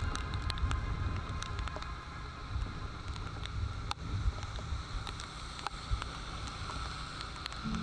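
Wind buffeting the microphone and road noise from a motorbike ridden through heavy rain, a steady low rumble, with scattered sharp ticks of raindrops striking the camera.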